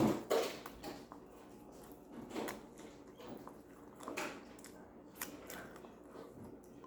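Chewing food close to the microphone: soft, scattered wet mouth sounds and small clicks of eating.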